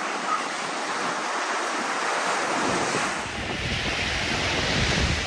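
Sea surf washing onto the beach as a steady rush, with wind buffeting the microphone from about halfway through.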